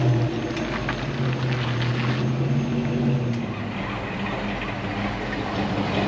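A vehicle engine running steadily, its pitch stepping slightly a couple of times.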